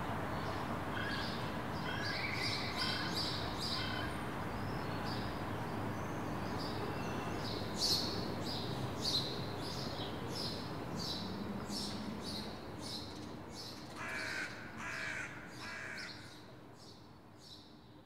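Birds calling: short calls repeated in quick runs, over a steady low background hum. The sound fades out near the end.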